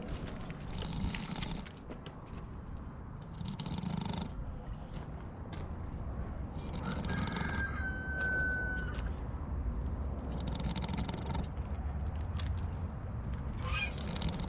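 A sleeping pig snoring, about five slow, rough breaths roughly three seconds apart. A thin steady whistle sounds briefly in the middle.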